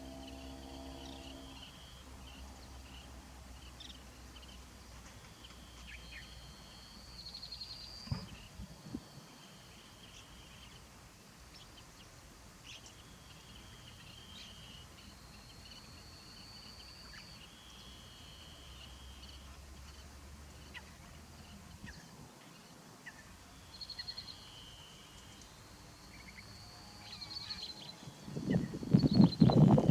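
Birds calling in the background: short, high trilled phrases recurring every second or two over a quiet outdoor hush. Near the end, wind buffets the microphone.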